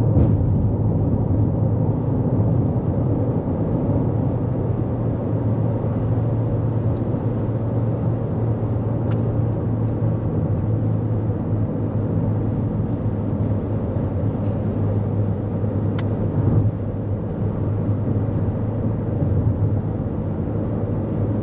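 Steady road and tyre noise with a low hum, heard inside the cabin of a 2024 Toyota Corolla Cross driving on the highway. A few faint clicks come through in the middle.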